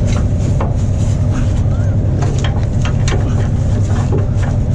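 Heavy diesel truck engine idling steadily with a low rumble, with scattered metallic clinks and knocks over it.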